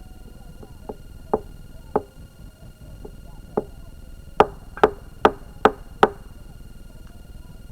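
A series of sharp knocks, like chopping strokes: four spaced irregularly, then five quick even strokes about two and a half a second, around the middle.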